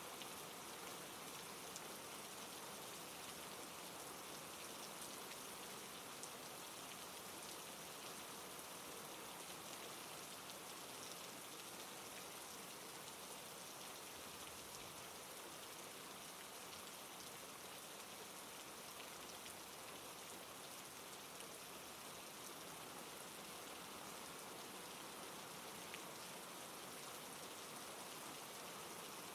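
Soft, steady rain falling, with faint scattered drop ticks over an even hiss.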